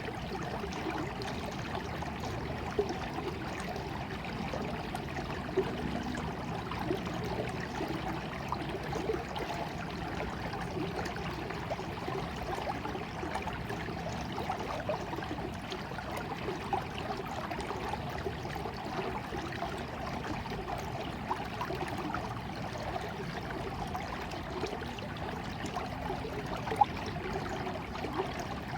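Small stream of water running and trickling steadily, with a few brief louder splashes.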